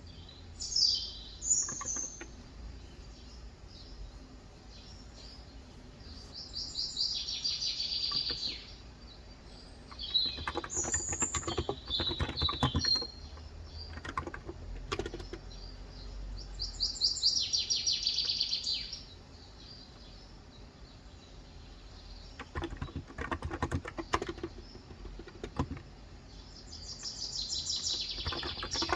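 Birdsong: a trilled call repeated about every ten seconds, three times, with shorter chirps in between. Between the calls come bursts of typing on a Cox Endeavour electrocapacitive keyboard with 35 g switches, rapid soft keystroke clicks.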